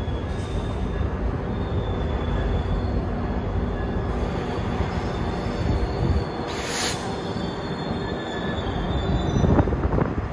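GO Transit commuter train rolling through the station: a steady low rumble of wheels on rail with faint, wavering wheel squeal. A short hiss comes about two-thirds through.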